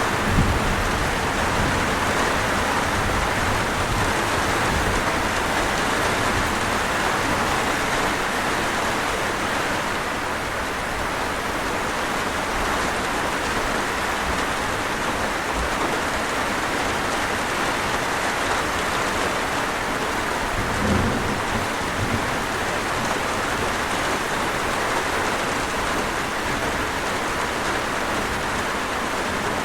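Steady rain falling, with low rumbles of thunder, one right at the start and another about two-thirds of the way through.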